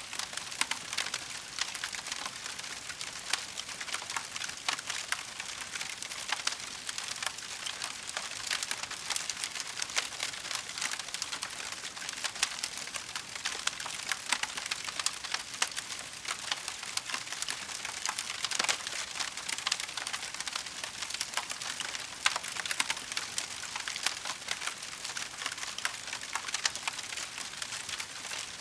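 Wood fire in a fireplace crackling steadily, with frequent small sharp pops and snaps over a soft hiss.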